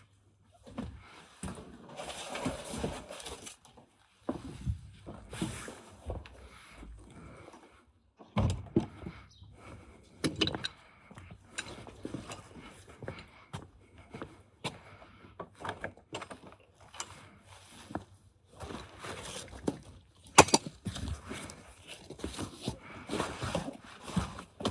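Hand work on car parts: irregular metallic clinks, knocks and scraping as tools and parts are handled, with the sharpest knock about twenty seconds in.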